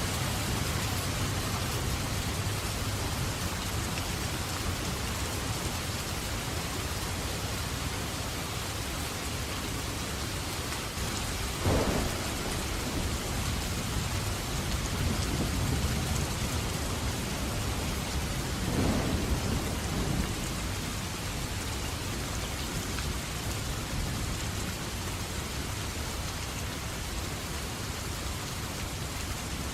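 Steady rain falling, with two rolls of thunder, one about twelve seconds in and a longer one about seven seconds later.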